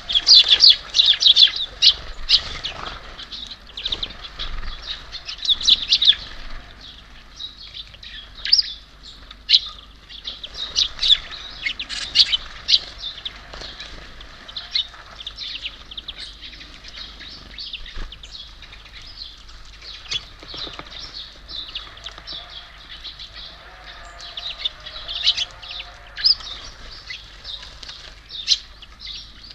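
Small songbirds at a feeder, giving many short, high chirps and twitters that are busiest in the first few seconds and thin out after that.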